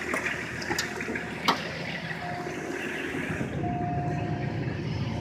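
BMW M21 2.4-litre straight-six turbo diesel in a 1984 Lincoln Continental idling steadily while it warms up. There are two sharp knocks in the first second and a half, and a thin steady high tone comes and goes from about two seconds in.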